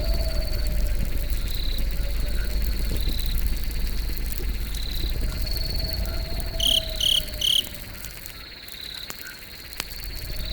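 Campfire crackling with scattered sharp pops over a low rumble, under a steady pulsing trill of night insects such as crickets. A low wavering tone comes and goes, and three short loud chirps sound about seven seconds in.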